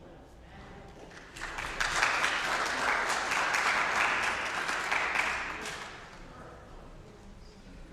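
Church congregation applauding, starting about a second and a half in and dying away at about six seconds.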